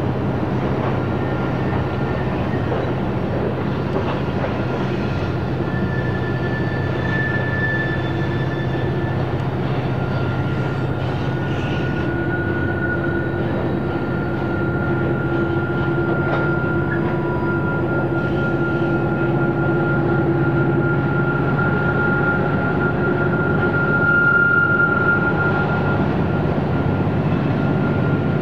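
Freight train moving through a curve: a steady low diesel drone, with long, high wheel squeals that hold for several seconds and waver slightly in pitch.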